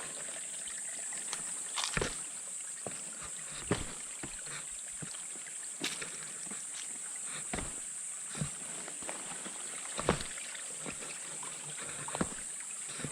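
Footsteps on a trail, a sharp step every second or two, over a steady high-pitched drone.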